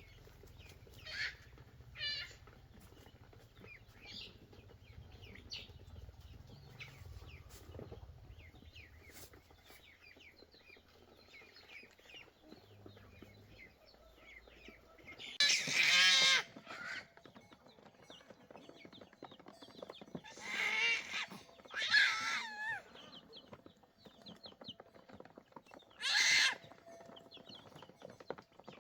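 Chickens clucking, with several loud, wavering squawk-like calls from about halfway through and one more near the end.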